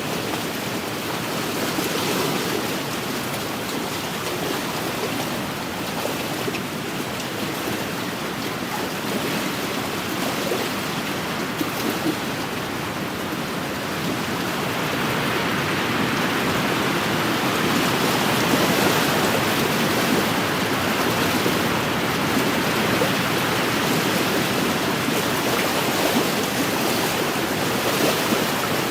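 Wind-driven waves washing against a lake shore, a steady rushing wash with wind, growing somewhat louder about halfway through.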